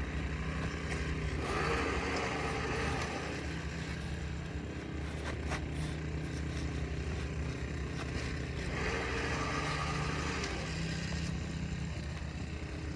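Asphalt shingle being slid into place under the course above, scraping twice, with a few light clicks in between, over a steady low hum.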